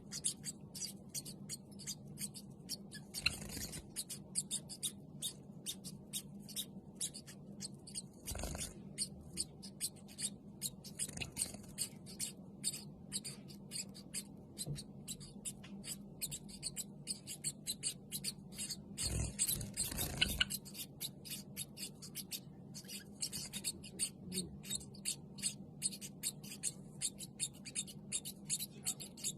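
Java sparrows making a rapid stream of dry, scratchy clicks, several a second, over a faint low steady hum, with a few louder rustles.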